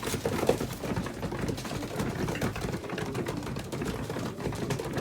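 Pigeons pecking at grain during hand-feeding: many quick, irregular small clicks.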